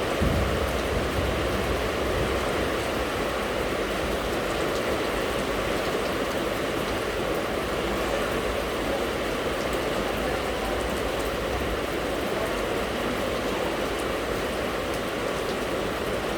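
Steady rain falling, a constant even hiss and patter with no let-up. A brief low rumble sounds in the first couple of seconds.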